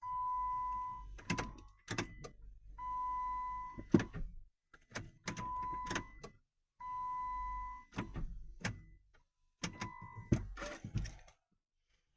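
Repeated attempts to start a Chrysler Grand Voyager that will not start: five times a steady, beep-like tone lasting about a second, each followed by sharp clicks and thunks, with no engine catching.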